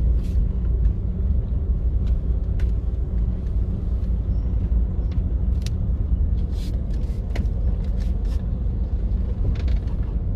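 Steady low engine rumble with a faint even hum, as of a large engine idling, with scattered light clicks and knocks over it.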